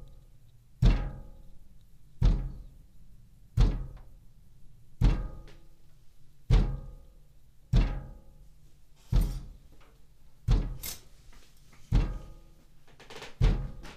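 Window glass being struck with heavy, regular knocks, about ten of them one every second and a half, each ringing briefly in the pane. The uploader does not know the cause and rules out construction, wind and trees.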